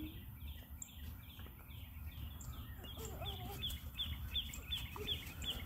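A songbird repeating a short down-slurred note over and over, about three times a second, the notes coming quicker and sharper about three seconds in, over a steady low outdoor rumble.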